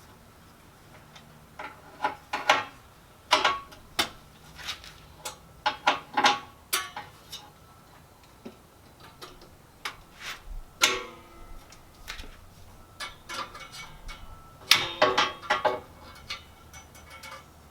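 Metal clicks and clinks of needle-nose pliers stretching an exhaust spring onto its hook, in scattered bunches. One clink about eleven seconds in rings on briefly, and there is a quick cluster of clicks near the end.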